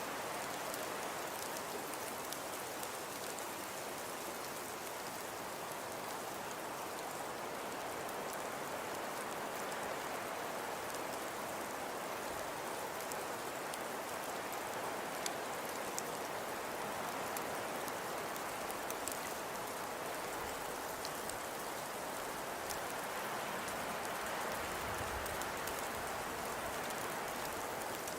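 Steady, even hiss of falling precipitation with scattered fine ticks, billed as snowfall but sounding like rain pattering on a surface.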